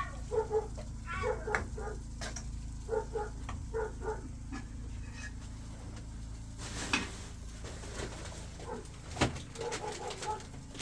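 Birds cooing in short, low calls that repeat every second or so, over a steady low hum, with a brief rustle about seven seconds in.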